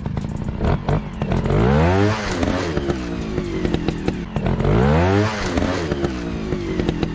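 Small dirt-bike engine revving up and dropping back twice, about three seconds apart, with short clattering clicks throughout.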